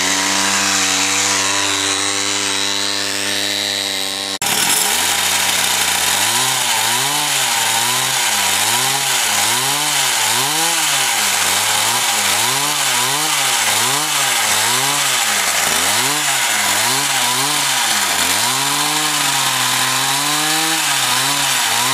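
Two-stroke chainsaw engine powering a minibike, running at a steady speed, then, after an abrupt break about four seconds in, revved up and down over and over, roughly once a second.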